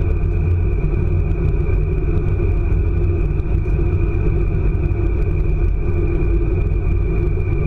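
Interior running noise of an ICE high-speed train at speed: a steady, loud, deep rumble of wheels on rail with a thin steady high tone above it.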